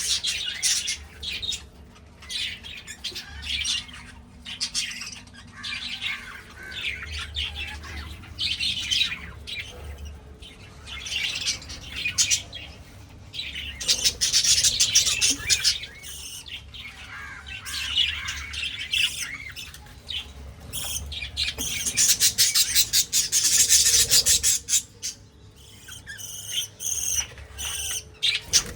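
Small parrots chattering and squawking, a busy stream of high calls that swells loudest about halfway through and again a few seconds before the end. A faint low hum runs underneath.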